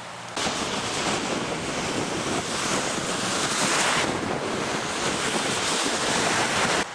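Downed live power line arcing: a loud, steady rushing hiss that starts abruptly and cuts off suddenly near the end.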